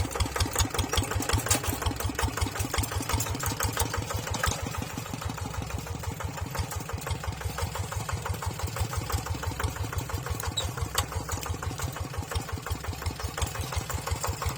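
Tractor engine running at a steady idle with an even, rhythmic chug.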